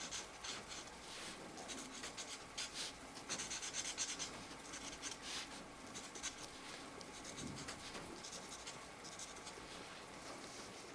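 Felt-tip markers stroking and scratching across colouring-book paper in many short, irregular strokes, over a soft steady hiss.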